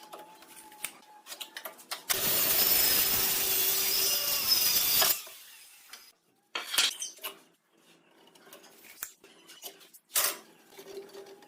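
A woodworking power tool runs for about three seconds. Scattered knocks and clicks of handling come before and after it.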